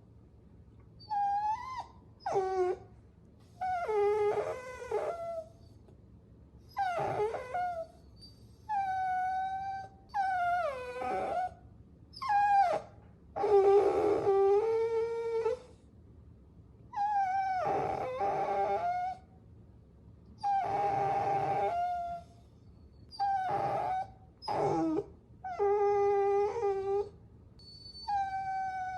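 Puppy whining: a run of high-pitched whimpering cries, each a second or two long with short pauses between, many sliding down in pitch at the end.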